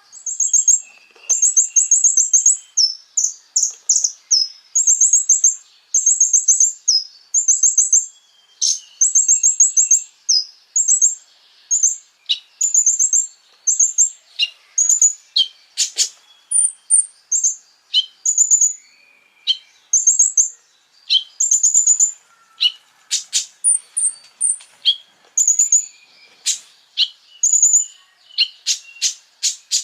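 Konin songbird singing: fast strings of very high, short chirping notes in repeated phrases, with sharp ticking notes scattered between them.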